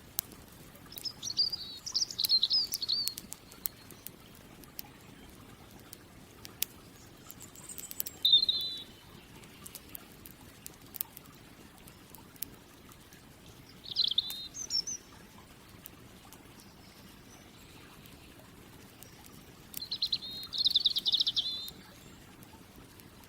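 A songbird sings four short trilled phrases a few seconds apart, with scattered faint crackles from a campfire between them.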